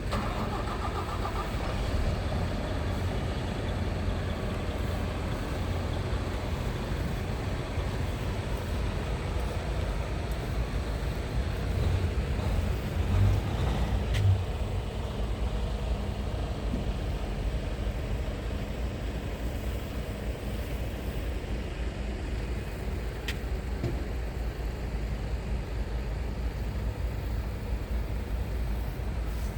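Scania R tractor unit's diesel engine idling steadily with a low rumble, with two brief clicks in the middle part.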